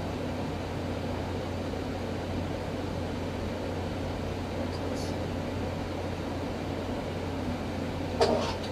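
Revlon One-Step hot-air brush hair dryer running steadily, a low hum with an even rush of air, while it is worked through the hair. A brief knock near the end.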